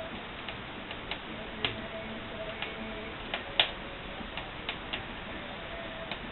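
Wood fire crackling in a brick barbecue-fireplace: irregular sharp pops and snaps over a steady hiss, the loudest pop a little past halfway.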